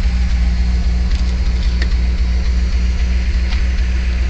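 A car's V8 engine idling with a steady low hum, most likely the 1979 Mercedes-Benz 450SL's 4.5-litre V8.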